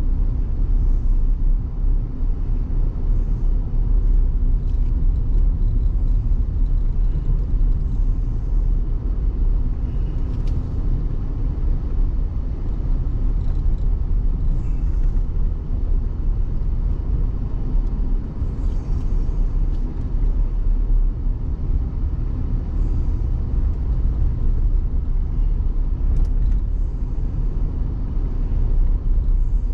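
Car driving on a dirt road, heard from inside the cabin: a steady low rumble of engine and tyres, with faint scattered ticks.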